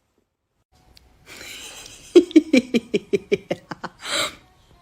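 A person laughing in a quick run of short "ha" pulses, ending in a sharp breath in.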